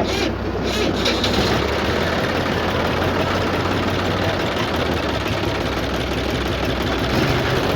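Heavy diesel engine of a tractor or JCB running steadily at a low, even pace.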